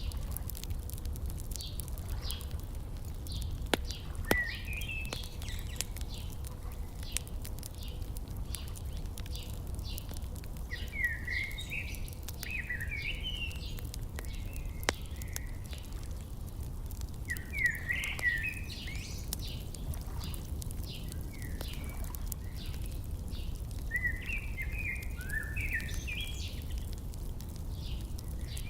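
Wood fire crackling with scattered sharp pops over a steady low rumble, while songbirds chirp and sing in short bursts every few seconds.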